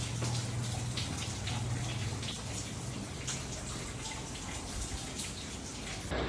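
Monsoon rain falling and dripping, with many close drops splattering, over a low steady hum. The sound changes abruptly just before the end.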